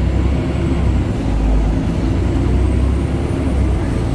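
BredaMenarini Avancity Plus city bus's Deutz diesel engine running with a steady deep drone, while the bus drives along.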